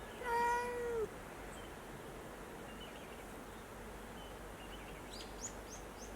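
A cat meows once, a single call of about a second whose pitch drops at the end. Near the end a bird gives a few short, high chirps.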